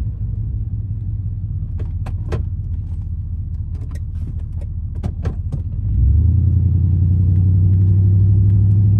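Cab noise of a GMC 2500HD pickup with a 6.0-litre gasoline V8 driving on a snowy road: a steady low engine and road drone, with scattered light clicks and rattles in the middle. About six seconds in the drone steps up to a louder, steadier hum.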